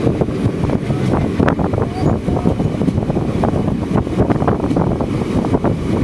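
Passenger train running, heard from on board, with wind buffeting the microphone over a steady rumble and irregular rattles and knocks from the carriage and wheels.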